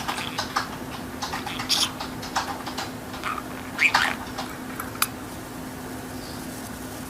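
Irregular light tapping and clicking on computer keys, with a short chirp about four seconds in, over a steady low hum; the taps stop about five seconds in.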